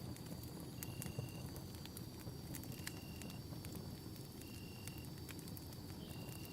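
Campfire crackling, with scattered sharp pops and snaps over a low rumble of burning. A steady high tone and a short high chirp repeating about every second and a half to two seconds run behind it, typical of night insects or frogs.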